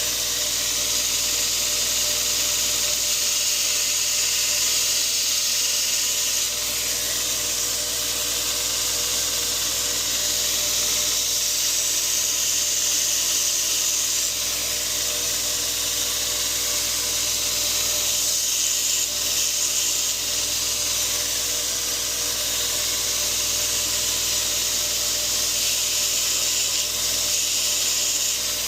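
2x42 belt grinder running, its abrasive belt grinding the steel tip of a Henckels paring knife to reprofile a broken point: a steady high hiss over the motor's hum, with a few brief dips.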